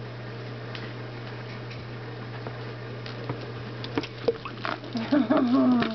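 Small splashes and clicks of water in a red-eared slider turtle's tank over a steady low hum; they grow more frequent after about three seconds, and a short bit of a woman's voice comes near the end.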